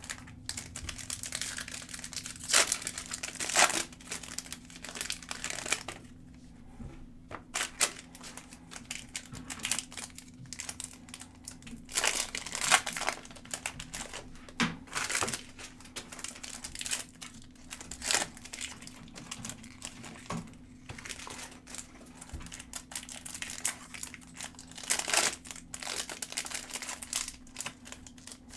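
Foil trading-card pack wrappers crinkling and rustling in irregular bouts as packs are handled and opened, over a low steady hum.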